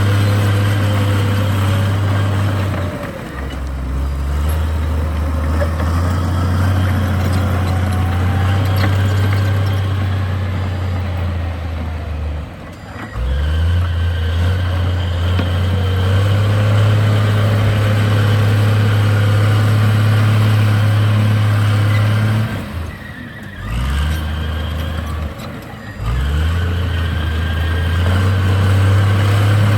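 Heavy diesel engine of earthmoving machinery running under load, its pitch stepping up and down as the revs change, with brief drops in level about 3, 13, 23 and 26 seconds in.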